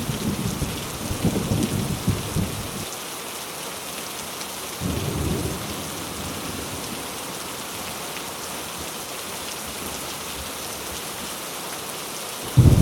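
Heavy rain falling steadily, with thunder rumbling through the first few seconds, a short rumble about five seconds in, and another loud rumble starting right at the end.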